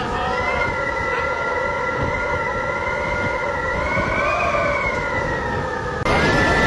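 A siren sounding with a steady, slightly wavering pitch over a rumbling background; it cuts off abruptly near the end.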